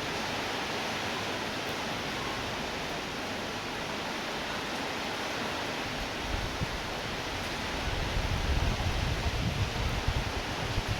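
Steady hiss of falling rain. From about halfway through, irregular low gusts of wind buffet the microphone.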